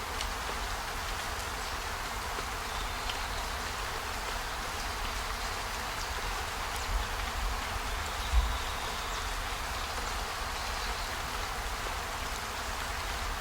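Steady hiss of a storm-and-fire ambience loop, with a low rumble underneath, a few faint ticks, and a low thump about eight seconds in.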